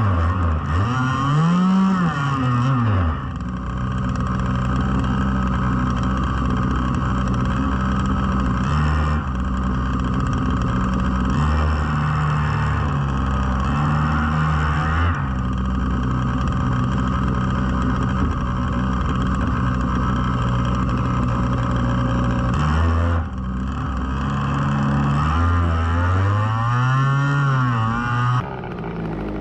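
Gas RC boat's 33 cc two-stroke trimmer engine running continuously. Its pitch swoops up and down near the start and again near the end, with steadier running between.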